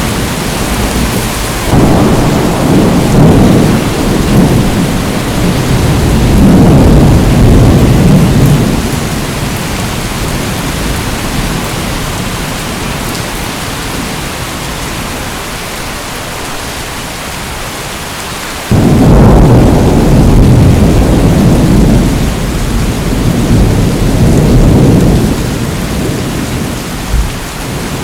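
Steady rain with thunder rumbling over it: a long roll starts about two seconds in and dies away by about nine seconds, and a second one breaks in suddenly about two-thirds of the way through and rolls on for several seconds.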